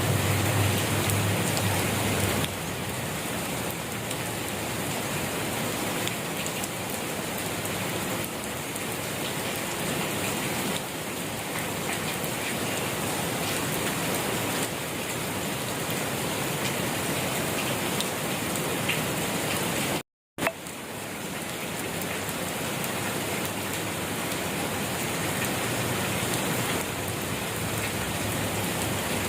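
Steady rain falling, a dense even hiss of drops on a surface. It is cut by a split-second gap of dead silence about two-thirds of the way through, then carries on.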